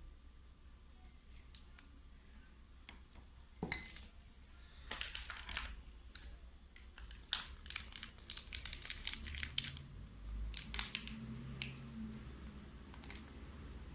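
Plastic piping bag crinkling and crackling in irregular bursts as it is squeezed to pipe pastry-cream frosting, with a few sharper clicks, busiest through the middle.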